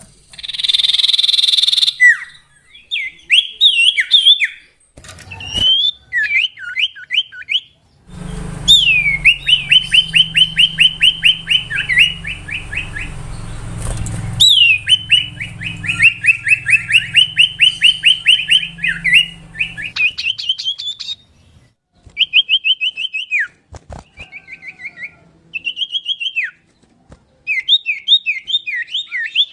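Common iora (cipoh) singing: phrase after phrase of fast, evenly repeated whistled notes and quick falling chirps, with short pauses between phrases. A harsh, buzzy call comes about a second in.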